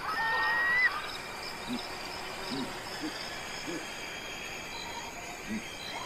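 Animal calls: a high whistled call in the first second, then a series of short, low hoots at uneven intervals, over a faint steady high-pitched trilling.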